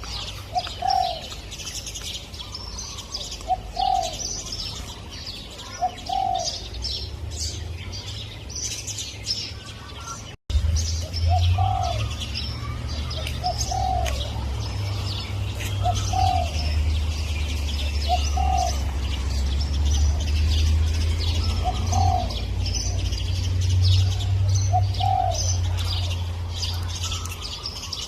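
Spotted dove cooing, one low note about every two to three seconds, over a busy chorus of high chirping from other small birds. A low rumble sits under it, and the sound drops out for a moment about ten seconds in.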